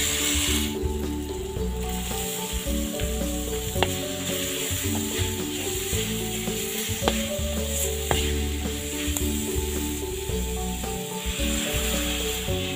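Spice paste and kenikir leaves sizzling in a large aluminium wok, with a few sharp clinks of a metal ladle on the pan. The sizzle is loudest at the start and again near the end. Background music with a melody runs throughout.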